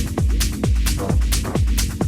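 Techno from a DJ set: a steady four-on-the-floor kick drum, a little over two beats a second, each kick a deep thud dropping in pitch, with hi-hats ticking between the kicks.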